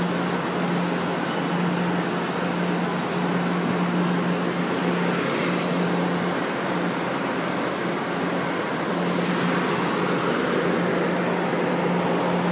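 Amtrak Pacific Surfliner train standing at the platform with its machinery running: a steady hum with a constant low drone under it.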